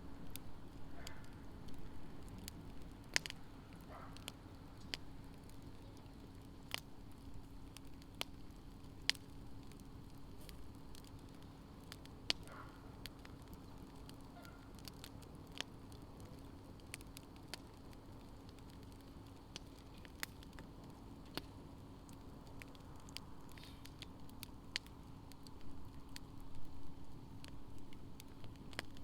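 Wood fire crackling in a campfire pit, with sharp, irregular pops every second or two over a faint steady hum.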